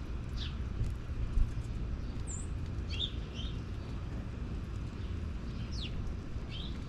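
Songbirds giving short, scattered chirps, about half a dozen over a few seconds, over a steady low rumble.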